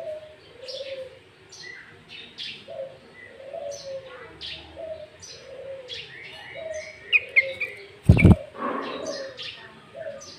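Sooty-headed bulbul (kutilang) song played as a lure: short, high chirps repeated again and again, with a quick run of notes about seven seconds in. Beneath it a low cooing note recurs about once a second, and a single sharp knock sounds near the end.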